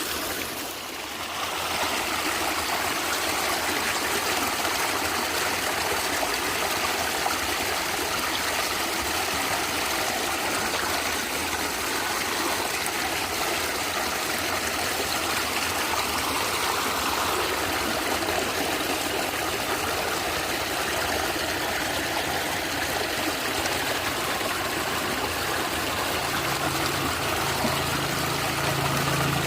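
Stream water flowing and gurgling in a steady rush. A low, steady hum joins in near the end.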